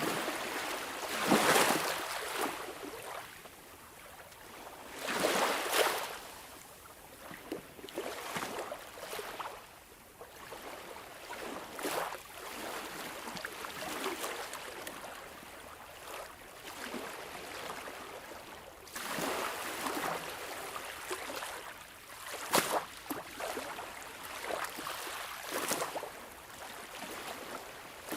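Sea waves washing in and splashing, in irregular surges of surf a few seconds apart. The biggest surges come near the start and again about two-thirds of the way through.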